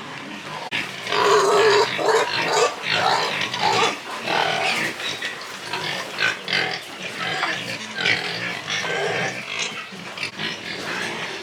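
Pigs calling, many short overlapping calls, loudest between one and two seconds in.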